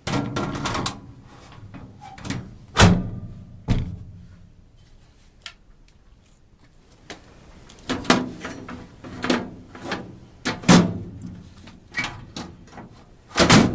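A run of irregular knocks and clunks, about eight in all, the loudest about three seconds in and again about eleven seconds in. They come from handling the furnace filter and the housing it was just pulled from.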